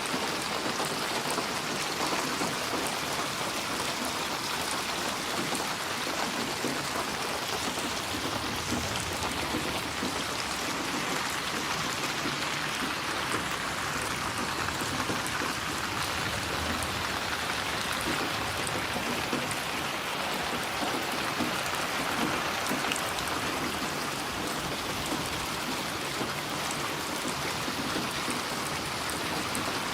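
Steady rainfall, a constant hiss of drops with fine scattered patter on surfaces.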